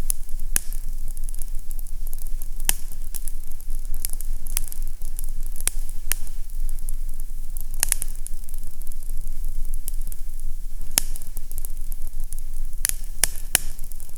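Fireplace fire crackling: irregular sharp pops scattered over a steady hiss, with a low hum underneath.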